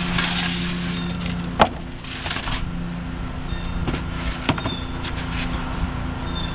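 Wooden bee hive parts being handled and set in place during assembly: one sharp knock about one and a half seconds in and a couple of lighter knocks later, over a steady low hum.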